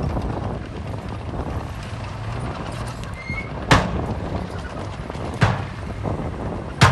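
Heavy earthmoving machinery's diesel engine running steadily, with three sharp knocks: one a little past halfway, one about a second and a half later, and one at the very end.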